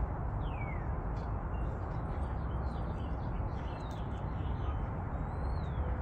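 Faint bird calls: two downward-sliding whistles and a scatter of short chirps, over a steady low outdoor rumble.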